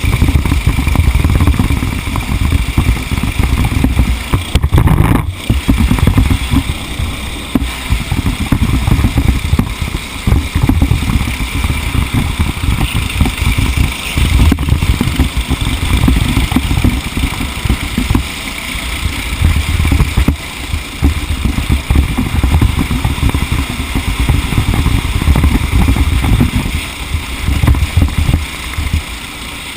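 A racing engine running hard under load, with heavy wind rumble on an onboard microphone.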